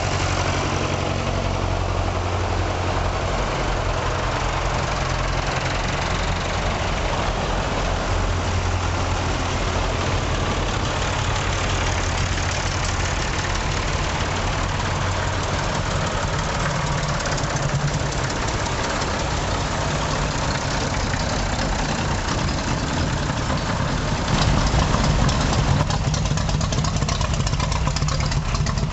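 Vintage tractor engines running steadily, getting louder about 24 seconds in.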